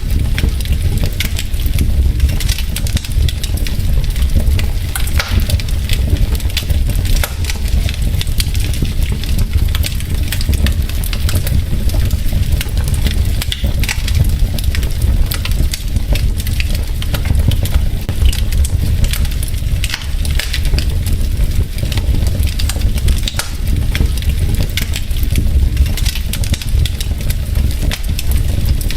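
Wood fire burning in a fireplace: logs crackling and popping in dense, irregular clicks over a steady low rumble of the flames.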